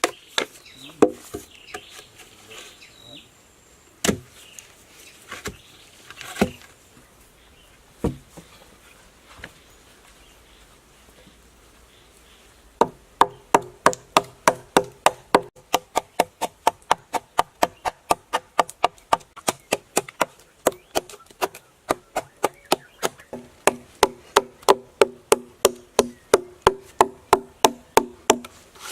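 Repeated chopping strikes on wood. A few scattered knocks come first, then from about halfway a steady run of about three strikes a second, each with a short hollow ring.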